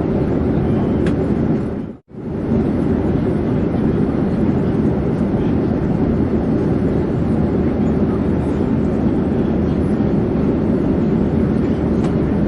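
Airplane in flight: a steady, low rushing drone. It cuts out abruptly for a split second about two seconds in, then carries on unchanged.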